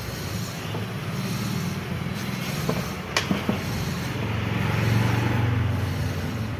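A motor vehicle engine running with a low hum that swells and eases off, with a few sharp clicks about halfway through.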